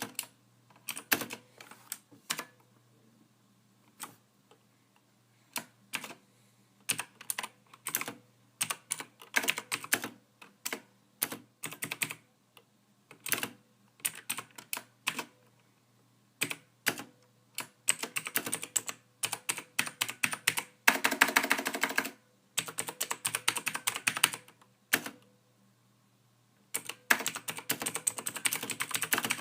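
Soft computer keyboard typing: keystrokes clicking in uneven bursts with short pauses between, growing into faster, denser runs of typing in the second half.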